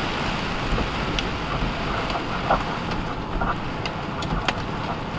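Steady rush of heavy rain and tyres on a soaked highway inside a truck's cab, with a few scattered sharp taps.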